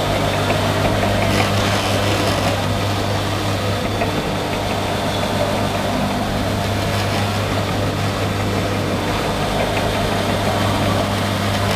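A vehicle engine running steadily, giving an even low drone.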